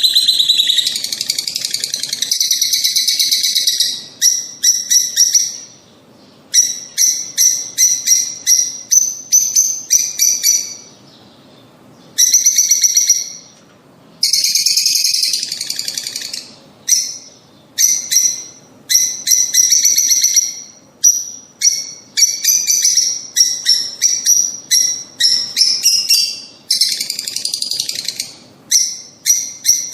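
Lovebirds chattering with loud, rapid, high-pitched chirps, in bouts broken by brief pauses.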